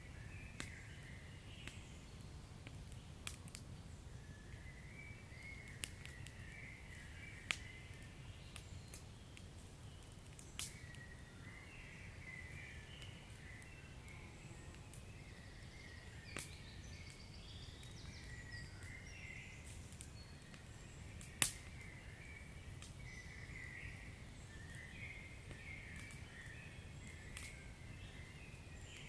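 Wood fire crackling in a fireplace, with scattered sharp pops, the loudest about two-thirds of the way through, over a faint low rumble. A faint high twittering chatter runs underneath.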